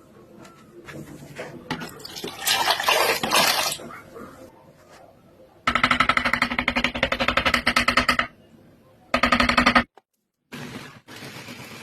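An electric kitchen appliance's motor running in two short bursts, a longer one about six seconds in and a brief one near the end, each starting and stopping abruptly with a fast, even pulsing, after some rustling and clatter.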